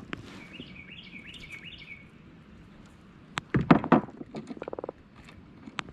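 A bird chirping a quick run of high notes, then a few sharp knocks, then a short rapid buzzing croak from a freshly caught Atlantic croaker drumming.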